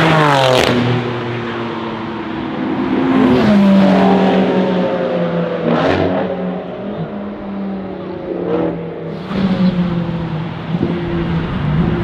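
Several high-performance car engines passing at speed and accelerating away. In the first half-second one engine note drops in pitch as the car goes by. About three seconds in, engines rev up in pitch, with short sharp cracks near the middle and again later.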